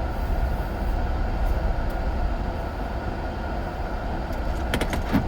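Steady low rumble of a car heard from inside the cabin, with a few sharp clicks near the end.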